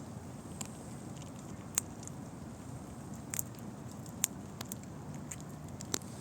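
Squirrel gnawing and cracking pine nut shells: sharp, irregular clicks and cracks, the loudest a little under two seconds in, again just past four seconds, and near the end, over a steady low background rumble.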